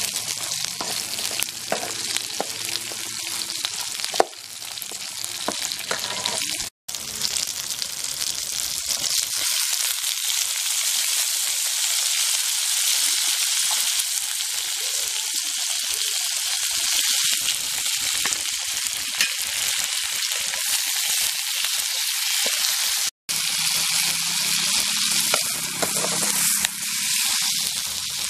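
Shallots, garlic, dried red chillies and tomato frying and sizzling in a small metal kadai, being roasted for a ground masala paste. A perforated steel spatula stirs and scrapes against the pan, with small clicks in the first several seconds, and the sizzle breaks off for an instant twice.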